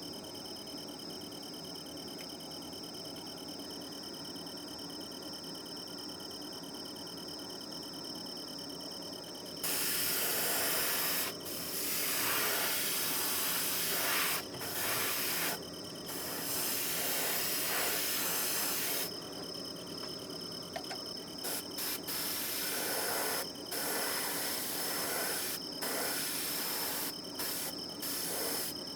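Airbrush spraying: loud hissing of compressed air and paint that starts about ten seconds in, runs for several seconds at a time, then comes in short trigger-pulled spurts. Before and between the spurts there is a faint steady background with thin high tones.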